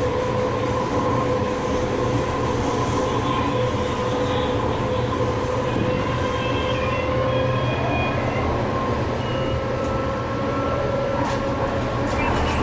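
TRAX light-rail train running, heard from inside the car: a steady rumble of wheels on rail with a constant two-note whine, and a few short high-pitched squeals around the middle.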